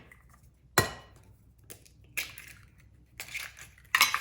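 Eggs being cracked for nokedli dough: a sharp knock of shell on a bowl about a second in, then several shorter cracks and clatters of shell.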